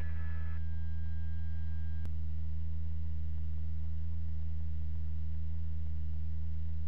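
Steady low electrical hum with faint steady tones above it, and a single faint click about two seconds in.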